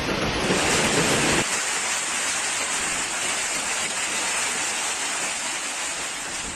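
Heavy rainstorm: a steady hiss of pouring rain. A lower rumble drops out abruptly about a second and a half in, and the hiss eases slightly toward the end.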